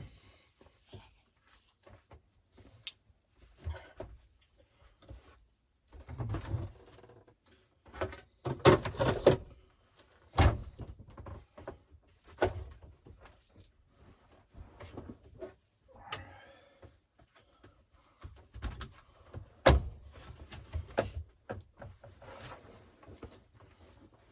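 Intermittent clinks, knocks and rattles of dishes, utensils and containers being handled and put away in a small space, with a few louder thumps, the loudest near the end.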